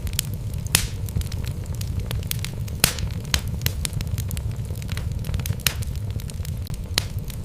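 Wood logs burning in a fireplace, crackling with frequent sharp pops over a steady low rumble of the flames. The loudest pops come about a second in, near three seconds, and near six seconds.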